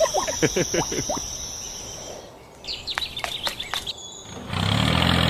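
A run of quick falling chirps, then a few fainter high chirps. About four and a half seconds in, a small engine starts and runs steadily with a low hum.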